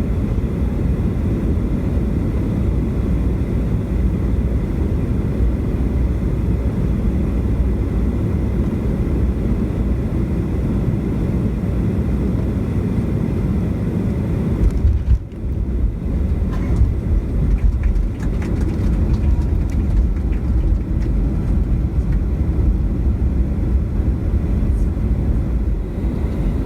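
Airbus airliner cabin noise during landing: a loud, steady low rumble. About halfway through, the level jumps briefly and then drops out for a moment, followed by scattered clicks and rattles.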